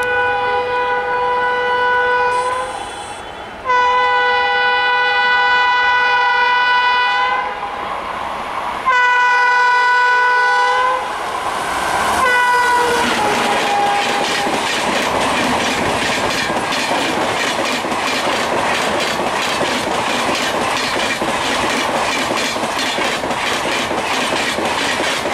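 A WAP-7 electric locomotive's horn sounds four times as it approaches, three long blasts and a short last one that drops in pitch as the locomotive passes about twelve seconds in. Then its coaches rush past at speed with a fast clickety-clack of wheels over the rail joints.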